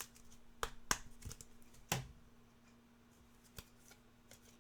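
Trading cards being handled and flipped through: a few short, sharp clicks and snaps, most of them in the first two seconds and one more past the middle, over a faint steady hum.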